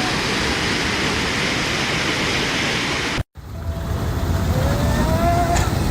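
Rushing floodwater from an overflowing river, a steady heavy rush that cuts off abruptly about three seconds in. After the cut comes quieter background noise with a short rising call-like tone near the end.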